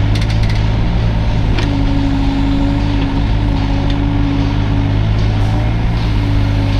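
Hydraulic excavator running steadily under its diesel engine, with a higher hum from the hydraulics that drops out briefly a couple of times, and a few faint knocks.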